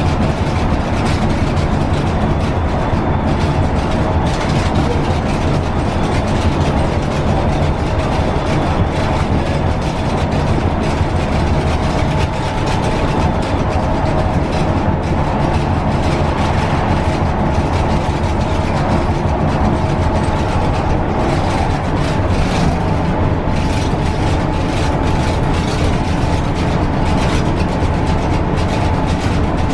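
Scania K320UB bus running steadily at speed along a guided concrete busway: a continuous diesel engine hum and tyre rumble, with a steady whine above it.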